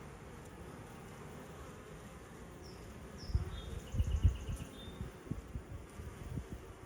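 Honeybees buzzing around a log hive, with a few loud, low swells of buzzing near the middle. A bird chirps and trills briefly in the middle.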